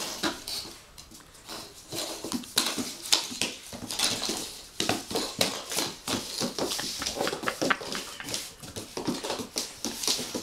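Puppies playing: short, quick yips and whines from about halfway in, over scuffling and small clicks and knocks throughout.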